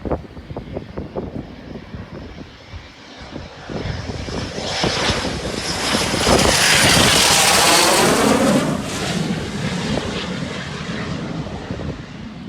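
BAE Hawk jet trainer's turbofan whining as the jet passes close by on landing, swelling to a peak a little past the middle and then easing off. Wind buffets the microphone in the first few seconds.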